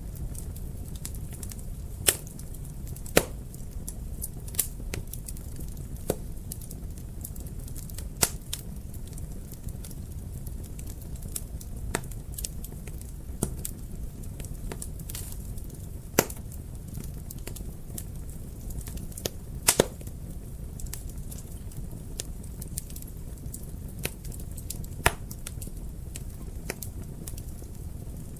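Wood fire crackling in a fireplace: irregular sharp pops and snaps every second or few over a steady low rumble of the burning fire, with a quick double pop about two-thirds through.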